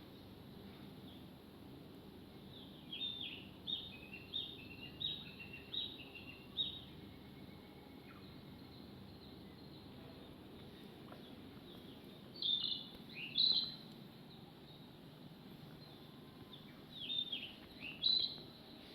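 A small bird singing in three phrases of short, high, down-slurred chirps, about two notes a second, over a steady low background hum.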